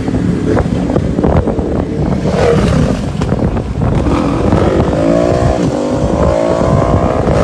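Honda Click 125 scooter's single-cylinder engine and belt drive under way over rumbling wind noise, its pitch rising steadily in the second half as it accelerates.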